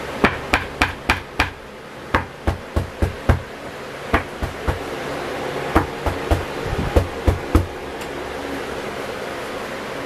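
A fist and hand thumping and pressing an acoustic panel onto a wall freshly coated with contact cement, to make it stick. About twenty dull knocks come in quick runs through the first seven and a half seconds, then stop.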